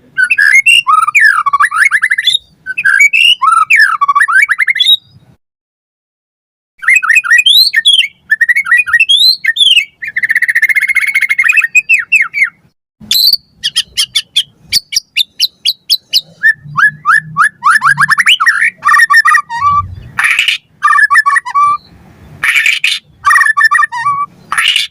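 White-rumped shama singing a loud, varied song: quick whistled phrases that sweep up and down, a harsh buzzy stretch and runs of fast chattering notes. There is a short pause about five seconds in.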